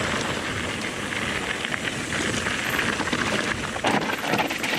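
Mountain bike riding over a loose dirt and gravel trail: steady tyre crunch and rolling noise, with scattered small knocks and rattles from the bike and a sharper knock about four seconds in.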